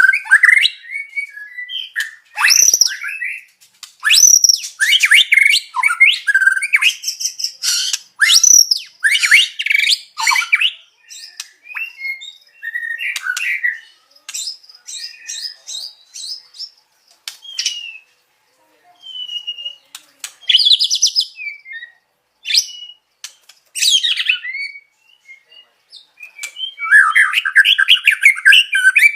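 White-rumped shama (murai batu) singing loud phrases of sweeping whistles and chirps. The song thins to scattered short calls about halfway through, then breaks into rapid chattering near the end.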